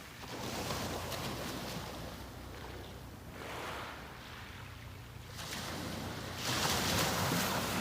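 Sea waves breaking and washing up a beach, the surf rising and falling several times, with the loudest wave breaking near the end.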